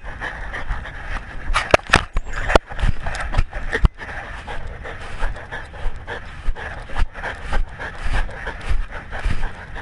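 A dog panting rapidly and evenly, picked up close to its mouth by a collar-mounted camera. A few sharp knocks come in the first four seconds.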